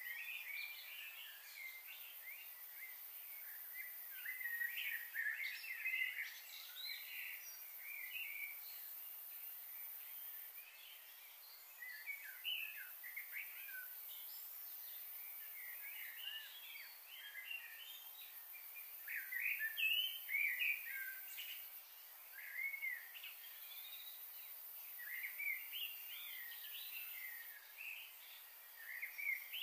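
Birds chirping and calling outdoors, a steady run of short, quick notes in overlapping bursts with brief lulls.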